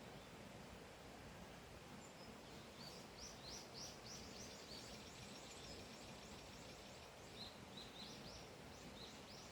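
Faint wild bird song over a quiet outdoor background. There is a quick run of short, high, downward-slurred chirps about three seconds in, and a few more chirps near the end.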